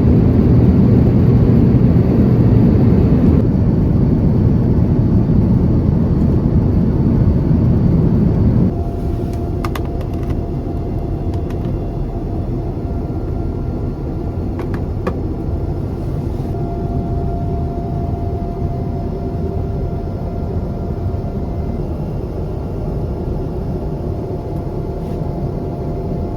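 Airbus A350-900 airliner heard from inside the cabin: a steady, loud rumble of engine and airflow noise. About nine seconds in it drops abruptly to a quieter cabin hum with a faint steady tone and a few light clicks.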